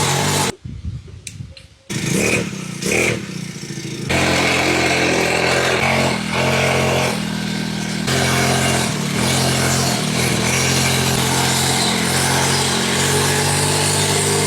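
Small 49cc four-stroke pocket bike engine running. The sound drops away for about a second and a half near the start, then comes two quick revs, then the engine runs steadily at high revs with small rises and dips in pitch.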